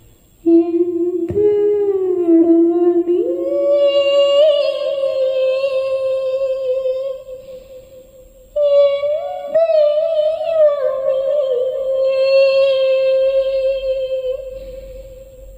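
Voices holding two long, wavering notes of about six to seven seconds each, with a break of about a second and a half between them; the pitch glides upward during the first note, and two voices overlap near its start.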